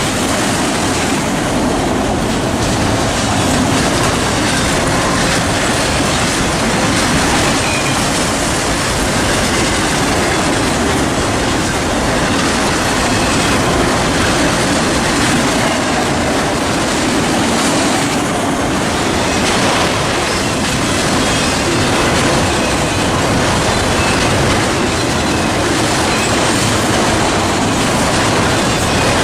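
Norfolk Southern train rolling past on the rails: a loud, steady noise of railcar wheels on track, running unbroken.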